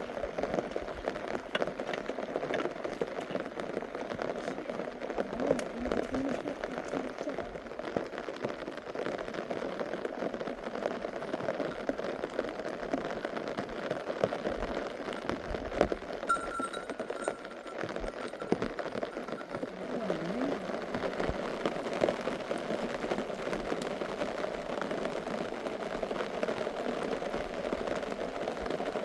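Steady rain falling, with a dense, even pattering of drops.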